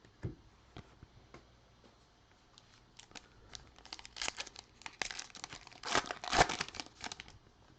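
Foil trading-card pack wrapper being torn open and crinkled by hand: a few light ticks, then a few seconds of dense crackling, loudest near the end.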